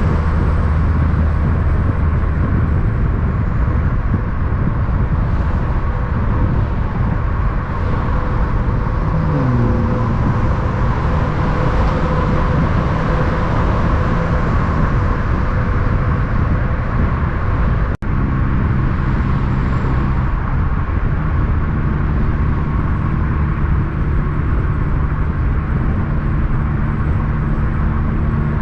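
Heavy truck diesel engine running with road noise. Its pitch rises once about a third of the way in, and the sound breaks off sharply and resumes about two-thirds of the way through.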